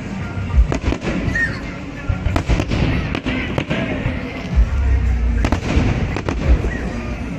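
Aerial fireworks bursting: a rapid, irregular string of sharp bangs with deep booms among them, over music playing in the background.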